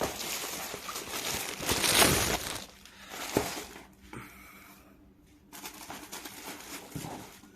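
Plastic packaging crinkling and rustling as it is handled and pulled open, with a few sharp knocks, loudest about two seconds in.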